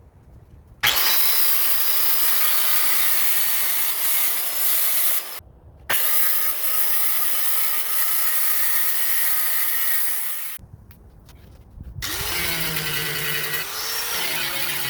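Power tool working on wood in two long runs of several seconds each, with a short break between. Near the end a quieter motor runs with a pitch that wavers up and down.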